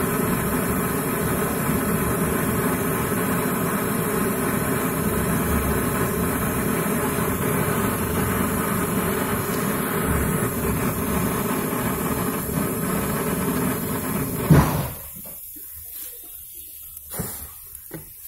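Brazing torch burning steadily while the refrigerator compressor's pipe joints are heated. It is shut off with a sharp pop about 14 and a half seconds in, followed by a few light metal clinks.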